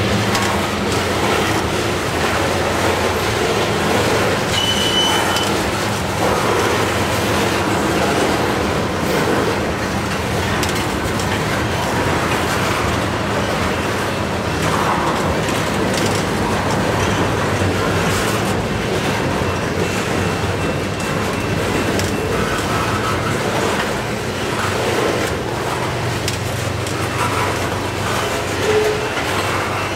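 Tank cars of a CN freight train rolling past close by: steady noise of steel wheels on the rails, with the clickety-clack of wheels crossing rail joints.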